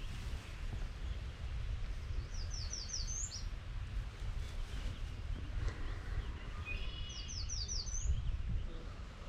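A small songbird sings a short, high phrase of about five quick down-slurred notes ending in a rising note, twice, about five seconds apart, over a steady low rumble.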